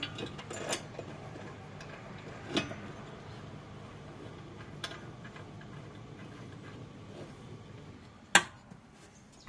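Small metal parts, the washers and bolt for a mower blade, clinking as they are handled: a few light clinks, then one sharp clink near the end.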